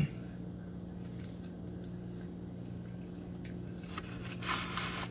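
Quiet eating sounds: chewing a mouthful of crispy thin-crust pizza melt dipped in marinara sauce, with a short crisp burst about four and a half seconds in. A steady electrical hum runs underneath.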